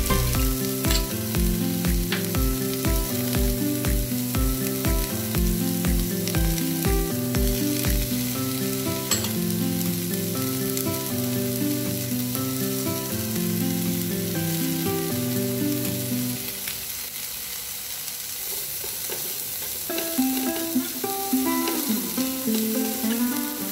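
Chopped onion, bell peppers and chilies sizzling as they sauté in butter in a nonstick pan, under background music that has a low beat about twice a second for the first third and fades out about two-thirds of the way through. Near the end a spatula stirs and scrapes the vegetables, in uneven louder bursts.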